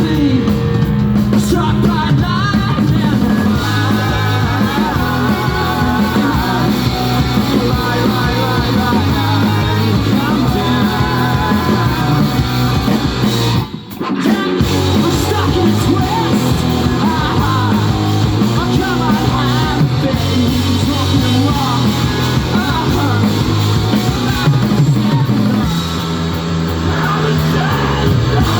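Rock band playing live and loud, with electric guitars, bass and drums. About halfway through the band stops dead for a moment, then comes back in.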